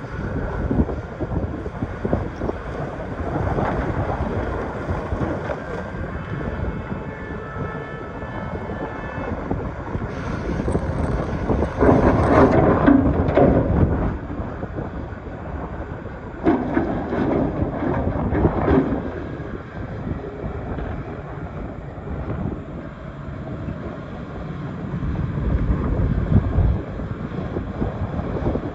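Excavator's diesel engine working under load while the bucket digs in rock, with scattered knocks and scraping of stone. The engine grows louder and strains in two spells, about twelve and seventeen seconds in.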